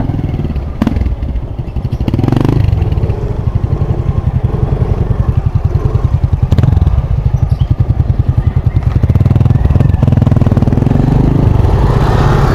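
Small motorcycle engine running at low speed, riding slowly, with a rapid, even throb.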